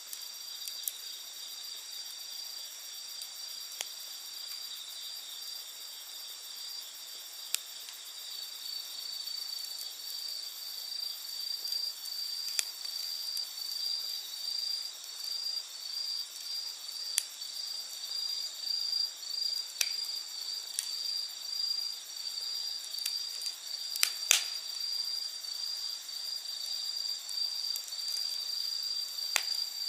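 A steady high chorus of night insects, with one pulsing note joining after several seconds. Over it a wood campfire gives a few scattered sharp pops and crackles, the loudest about three-quarters of the way in.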